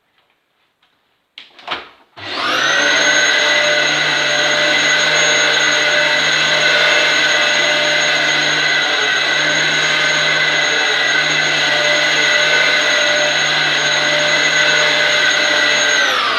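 Dyson DC07 upright vacuum cleaner switched on with a click about two seconds in, its motor then running steadily with a high whine. Near the end it is switched off and the whine falls away as the motor winds down.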